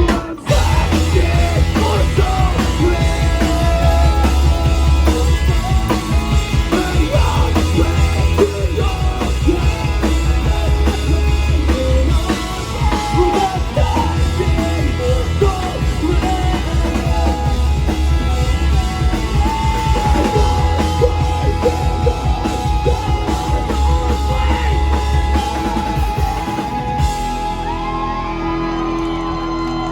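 Rock band playing live at full volume: drums, bass, guitar and shouted, yelled vocals. About 27 seconds in the drums and bass drop out, and a held note rings on as the song ends.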